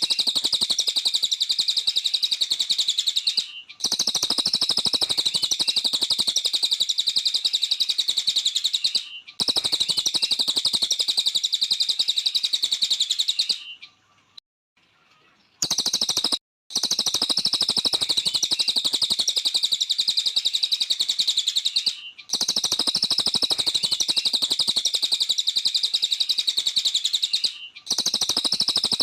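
Cililin songbird singing in long runs of rapid, high-pitched chirping, each run lasting several seconds with brief breaks between them and a longer pause about halfway through.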